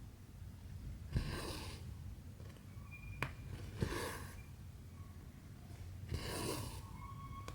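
Cotton embroidery thread being drawn through 14-count cross-stitch fabric: three swishes about two and a half seconds apart, each starting with a sharp click as the needle goes through. There is one more lone click between them, over a low steady hum.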